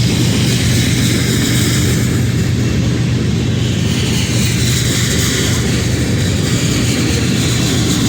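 Union Pacific freight train rolling past: a steady low diesel locomotive drone under continuous wheel and rail noise.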